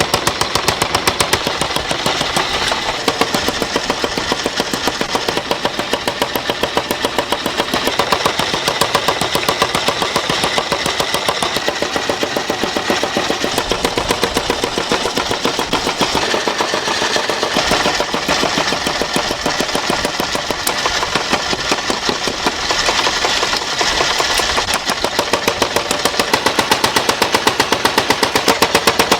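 Steady, fast mechanical rattle of a workshop machine: a rapid, even run of many impacts a second, continuing without a break.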